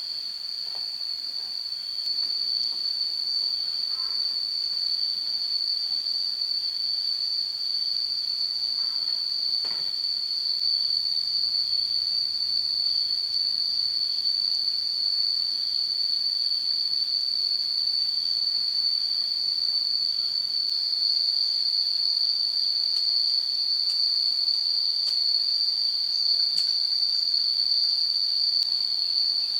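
Insects chirring in a steady, unbroken high-pitched drone, with a few faint clicks.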